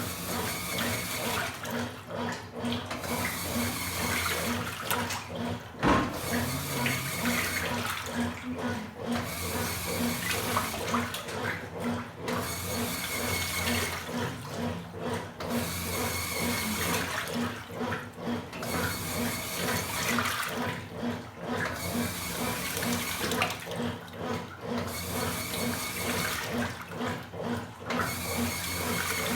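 Washing machines agitating a load: water sloshing in rhythmic surges every second or two over a steady motor hum. A single knock about six seconds in.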